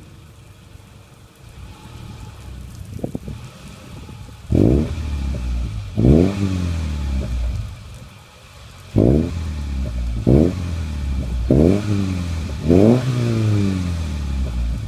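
Subaru Impreza 2.5i flat-four engine through a Magnaflow aftermarket exhaust, idling and then revved in a series of sharp throttle blips. There are about six loud blips, each falling back toward idle.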